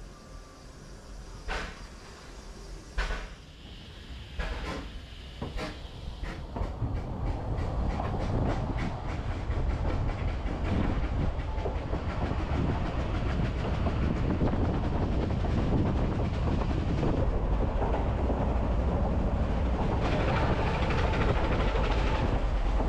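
Narrow gauge train pulling away, its wheels clicking over rail joints slowly at first and then faster, building into a steady rumble of wheels on track, heard from an open coach.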